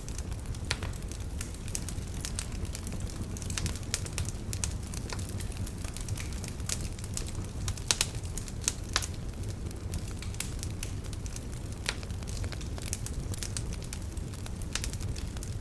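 Wood fire in a fireplace crackling, with irregular sharp pops over a steady low rumble of the flames; the loudest pops come about eight and nine seconds in.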